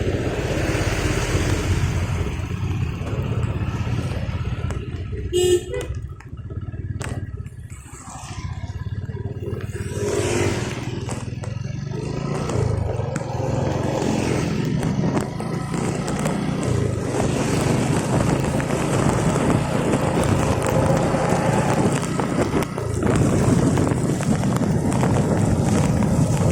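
Road traffic: vehicle engines running steadily, with a short horn toot about five and a half seconds in.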